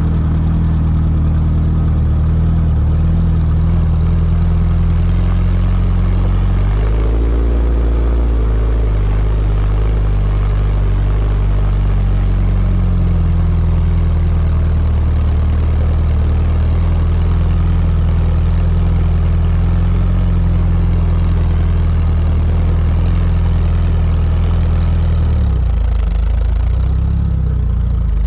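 Trials car's engine running steadily at low revs, picked up close by a camera mounted on the car. The pitch shifts up and down briefly about seven seconds in, and drops a little near the end.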